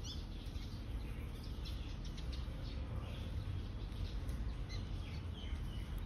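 Small birds chirping: short high chirps come irregularly, over a steady low rumble.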